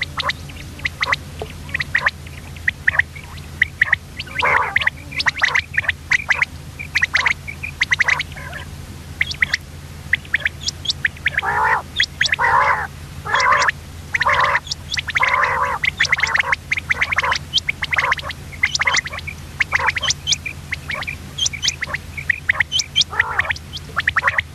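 Common quail calling: a rapid run of short, clipped notes, with rougher raspy bursts through the middle stretch, over a steady low hum.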